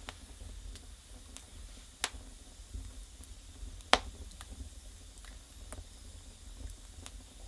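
Wood burning in a fireplace: sharp crackles and pops every second or so, the loudest about four seconds in, over a low steady rumble of the fire.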